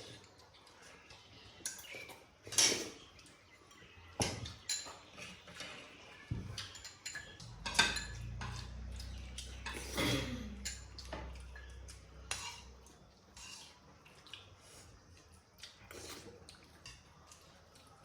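Scattered clinks and scrapes of cutlery against plates and bowls during a meal, with a low hum for a few seconds in the middle.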